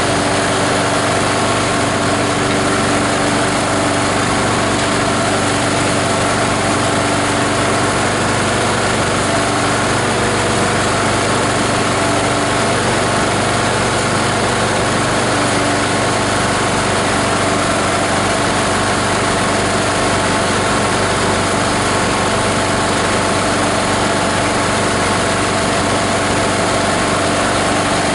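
The multi-purpose plastic grinder's 18 HP diesel engine running steadily, driving the blade system with a dense, unchanging machine noise throughout.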